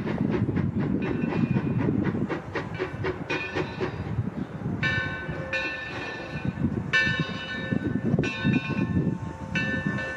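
Steam train rolling along the track with a steady rumble and rhythmic wheel clicking. A high-pitched squeal comes and goes in several stretches lasting about half a second to a second each.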